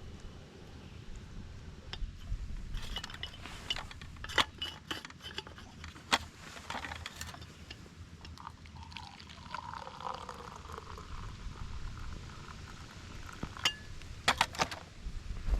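Camp cookware and a cup clinking and knocking as coffee is made, with a stretch of liquid being poured in the middle and a quick run of clinks near the end.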